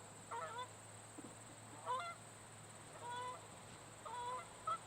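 Geese honking: about five short separate calls spaced roughly a second apart, faint.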